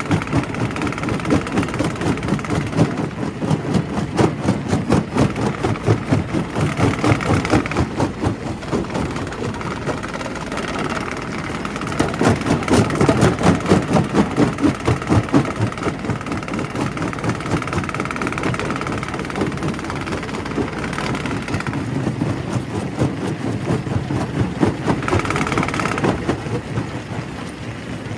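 Primary rock crusher at work: a steady engine-like running with a dense, rapid clatter of stone being broken. It swells louder for a few seconds about halfway through.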